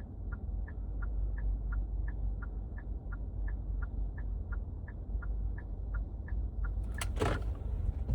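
Car turn-signal indicator clicking steadily, about three ticks a second in an alternating tick-tock, over low road rumble inside the moving car's cabin. A short rushing noise comes near the end.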